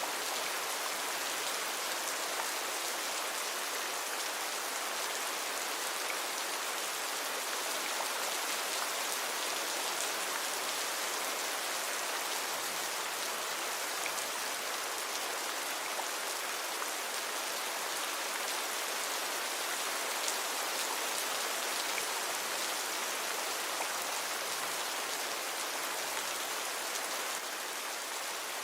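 Steady rainfall, a continuous even hiss of drops with faint scattered pattering.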